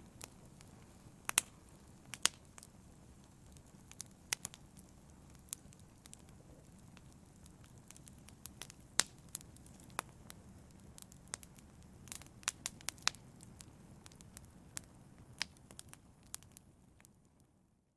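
Wood fire burning in a fireplace: a steady low rumble with irregular sharp crackles and pops, fading out near the end.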